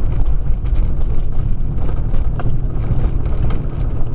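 Toyota Tacoma pickup's engine idling: a steady low rumble.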